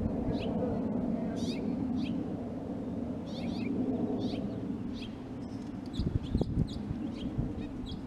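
Birds chirping: short, high, falling notes about twice a second over a steady low hum, with a few sharp knocks about six seconds in.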